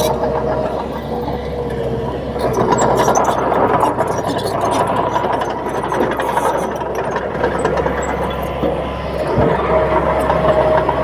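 Komatsu D31P bulldozer's diesel engine running steadily under load, a continuous loud drone, with a thin squealing tone near the start and again near the end.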